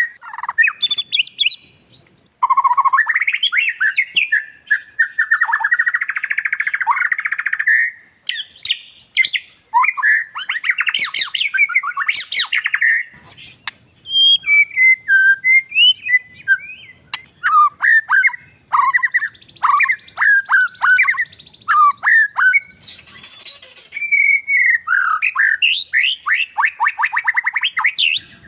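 Oriental magpie-robin in full song: loud, varied whistled phrases, fast trills and quick runs of repeated notes, broken by short pauses. It is the lively 'gacor' song that keepers play to provoke other magpie-robins into singing.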